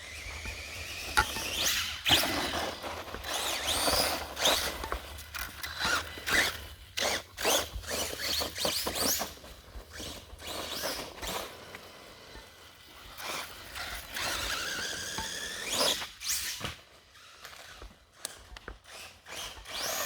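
1/10 Redcat Volcano RC truck's brushless motor whining up in pitch as it speeds up, several times, amid many knocks and rattles from the truck bouncing over the ground.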